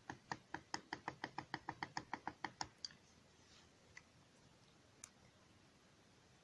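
Faint typing on a computer keyboard: a quick run of about twenty keystrokes, then two or three single clicks.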